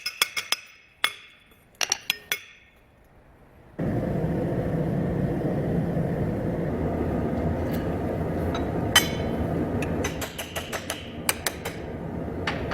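Hand hammer striking steel on an anvil with a bright ring: the tail of a fast run of blows, then a few spaced strikes. About four seconds in, a steady low rushing roar sets in and carries on, with a few clinks and taps over it.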